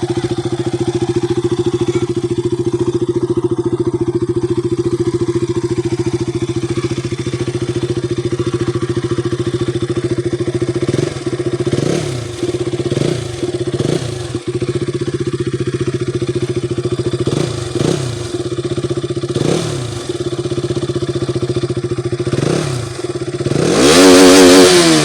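KTM RC 200's single-cylinder engine idling steadily, then blipped several times with short revs that rise and fall back to idle, ending in one long, loud rev near the end.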